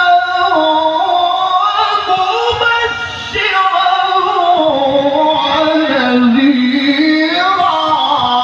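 A male qari's voice holding a long, ornamented melismatic phrase of tajwid Quran recitation, the pitch sliding and turning without a break, dipping lower about six seconds in and climbing again near the end.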